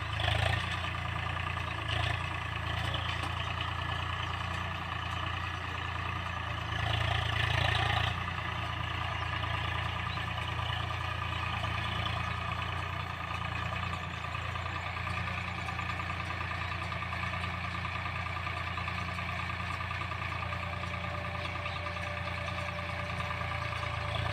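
Paddy combine harvester engine running steadily, a continuous machine hum with brief louder swells about half a second in and again around seven to eight seconds.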